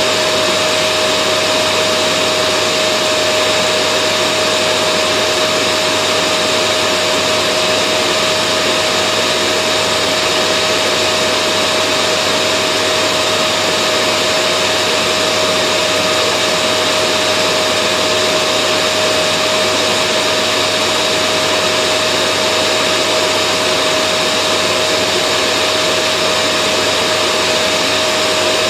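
Vacuum cleaner motor running steadily, a constant rushing hum with a high whine, played as white noise to calm a baby to sleep.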